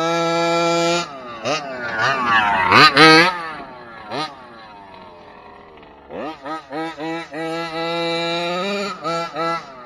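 Kraken Vekta.5 1/5-scale RC trophy truck's motor being run in bursts: a held burst at the start, pitch sweeping up and down a couple of times, a quieter lull in the middle, then a rising rev and a string of short throttle blips.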